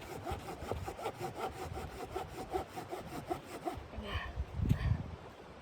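Hand saw cutting through wood in quick back-and-forth strokes, about four a second. The strokes stop about four seconds in, followed by a deep thump.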